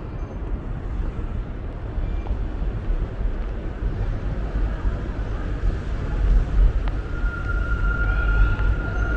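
Outdoor city ambience: a steady low rumble, with a steady high-pitched tone coming in about seven seconds in.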